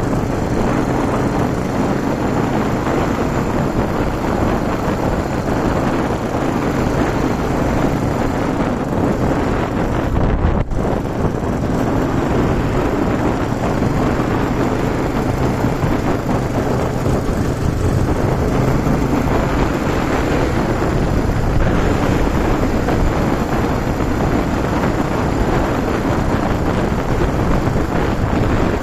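Yamaha TW200's single-cylinder four-stroke engine running steadily while the motorcycle is ridden, under heavy wind noise on the microphone. The sound briefly drops out about ten seconds in.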